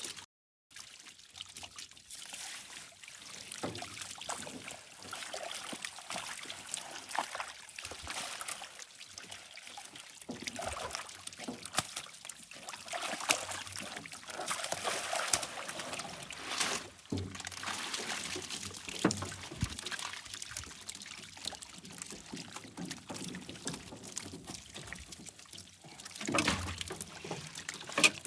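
Water pouring and trickling with irregular small splashes and clicks, after a brief silent cut at the start.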